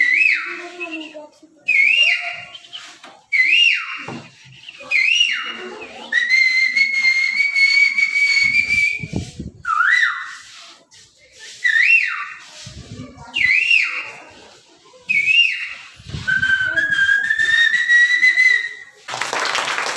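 A person whistling a bird-like call: short upward-swooping whistles, each about a second long, alternating with two long held whistles that rise slowly in pitch. Clapping starts near the end.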